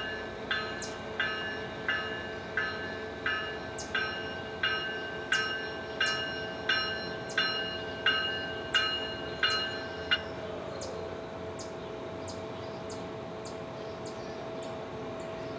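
Railroad bell ringing in even strokes about 0.7 s apart, over a steady hum. The bell stops about ten seconds in, leaving faint quick ticks.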